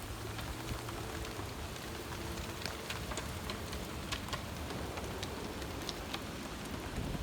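Heavy rain falling in a steady hiss, with scattered sharp ticks of drops striking nearby surfaces and a low steady rumble underneath.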